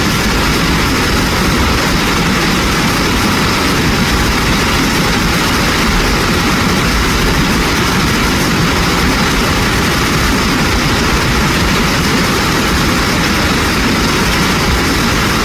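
Mountain stream water rushing over rocks: a loud, steady rush with no change.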